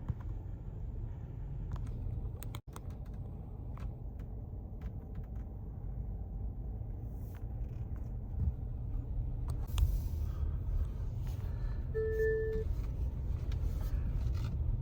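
Steady low road and engine rumble of a car being driven, heard from inside the cabin, with scattered light clicks. About twelve seconds in, a short electronic beep sounds once.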